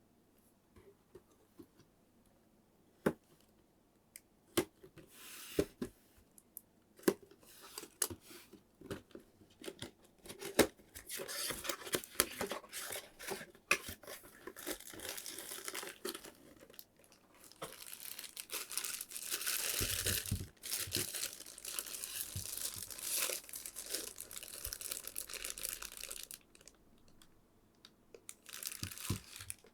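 Figure packaging being opened by hand: scattered taps and clicks at first, then long stretches of packaging crinkling, rustling and tearing, with a short lull near the end.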